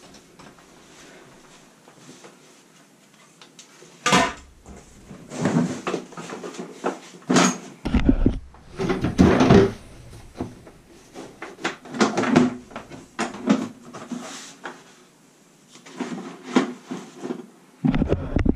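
Irregular knocks, clatter and rustling of tools and objects being handled and moved about, with short gaps. The noise starts about four seconds in and is loudest in the middle.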